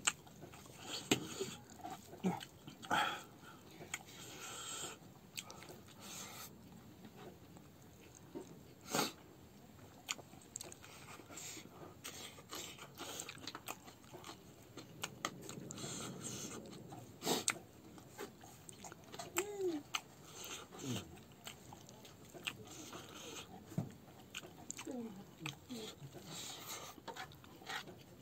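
A person eating with his hand, close to a clip-on microphone: chewing and wet mouth smacks with many short clicks throughout. A few brief pitched sounds that glide up and down come about two-thirds of the way through.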